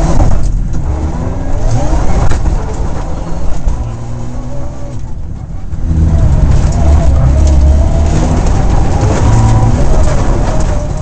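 Mitsubishi rally car engine heard from inside the cabin, revving up hard in the first couple of seconds. It eases off and goes quieter about four seconds in, then pulls again at high revs for the rest of the time.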